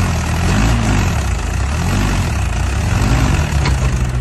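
Mahindra 575 tractor's diesel engine running steadily at low revs.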